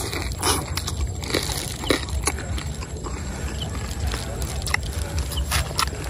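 Biting into and chewing crispy roast pork belly crackling: a string of short, crisp crunches, scattered irregularly, over a steady low rumble.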